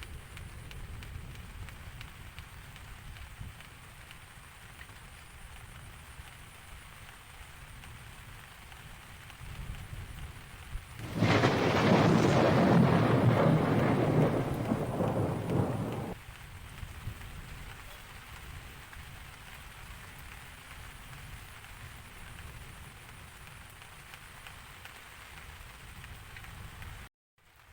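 Steady rain with a low rumble, broken about eleven seconds in by a loud thunderclap that lasts about five seconds and cuts off abruptly. Near the end the sound drops out for a moment.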